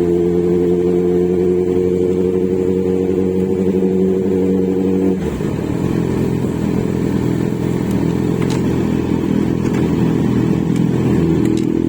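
Kawasaki Z900's inline-four engine running through its exhaust, held at a steady raised speed with its pitch creeping slightly upward, then dropping suddenly about five seconds in to a rougher, uneven idle.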